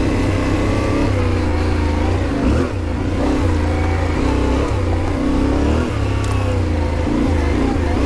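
Yamaha Ténéré 700's parallel-twin engine under way on a dirt trail, the revs rising and falling with the throttle, with a brief drop in revs about two and a half seconds in.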